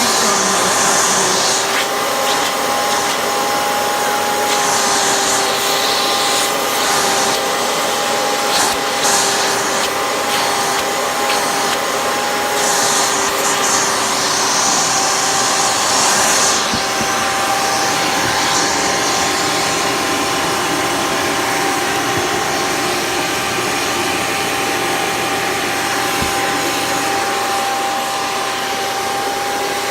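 2001 Hoover Caddy Vac upright vacuum cleaner, a direct-air machine, running steadily with its hose and tool in use: a steady motor whine over rushing air, with sharper hissing of drawn air a few times in the first half.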